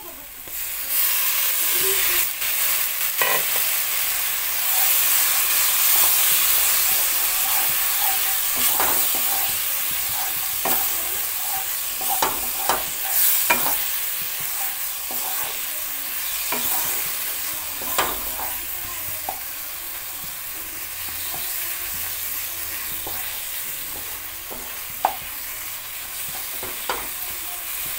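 Masala paste of onion, ginger-garlic and tomato sizzling in oil in a nonstick kadai while a wooden spatula stirs and scrapes it, with scattered sharp clacks of the spatula against the pan. The sizzle jumps up about a second in and slowly fades after that.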